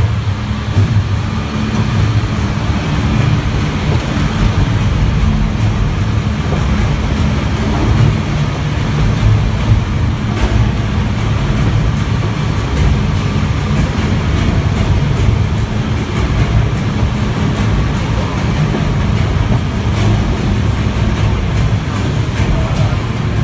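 Loud, steady low rumble from the King Kong 360 3D tram attraction: heavy bass from the show's sound effects mixed with the tram's running noise.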